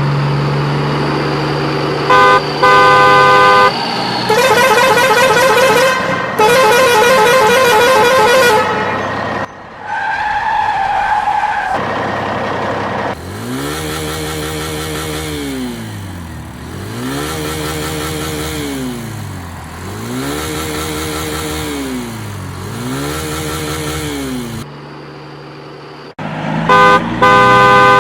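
Electronic vehicle sound effects: an engine hum, then several horn blasts, some of them fast-pulsing, then a siren wailing up and down about every three seconds, and horn blasts again near the end.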